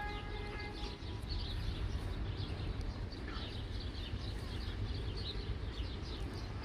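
Birds chirping over a steady low rumble, with a steady tone that stops about a second in.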